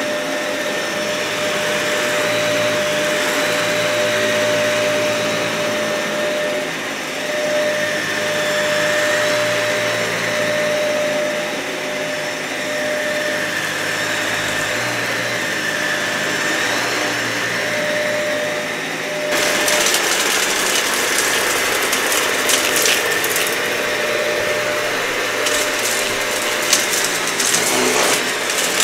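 Dyson vacuum cleaner running steadily over matted, dirty carpet. About two-thirds of the way through its sound turns suddenly brighter and hissier, and near the end there are scattered crackles and clicks of debris being sucked up.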